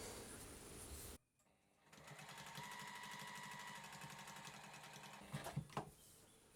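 JUKI SPUR 98 professional straight-stitch sewing machine stitching steadily for about three seconds, starting about two seconds in, then stopping with a few sharp clicks.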